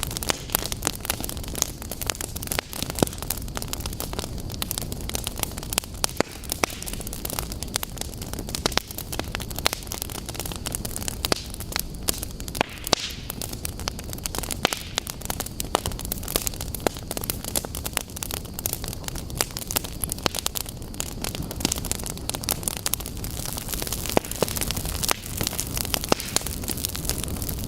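Wood fire burning in a fireplace: a steady low rush of flames with many sharp, irregular crackles and pops.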